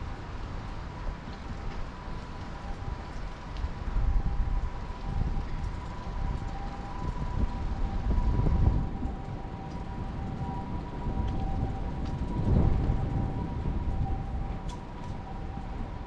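Japanese ambulance siren sounding its two-tone "pee-poh" call, alternating between two steady pitches, heard over a low rumble of traffic that swells a few times.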